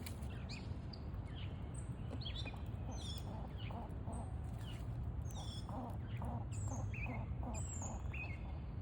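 Small songbirds chirping and calling in quick, overlapping short notes over a steady low background rumble. A lower, repeated patter of about two to three notes a second joins from about halfway through.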